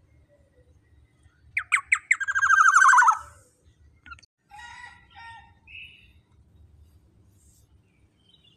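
Black-naped oriole calling: a few sharp notes, then a loud, harsh, rapid rattling call about a second and a half long that slides slightly down in pitch, followed by softer chattering notes.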